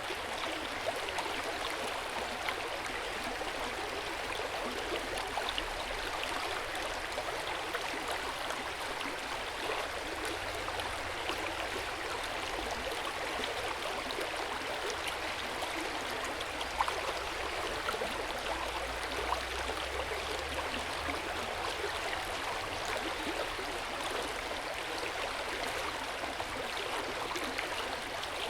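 Hot spring water flowing and splashing into an open-air bath: a steady, even splashing and gurgling with small drips scattered through it.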